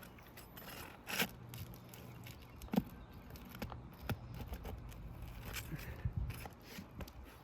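Prying tool scraping and knocking under old asphalt roof shingles, breaking their seal and working the nails loose: a few short scrapes and clicks, the loudest scrape about a second in and a sharp knock near three seconds.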